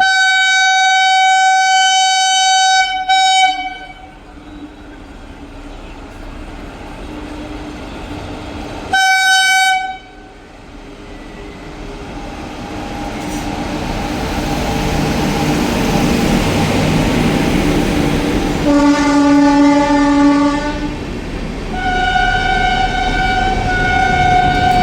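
Indian Railways express locomotive horn sounding: a long blast at the start, a short blast about 9 seconds in, and more blasts near the end. In between, the running noise of the train rises as it draws close, and a lower-pitched horn sounds briefly about 19 seconds in.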